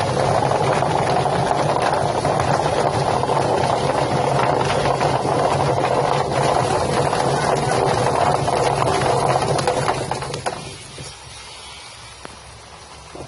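Drum-type chicken plucking machine running: a steady motor hum under a dense rattling, churning noise, which cuts off about ten and a half seconds in.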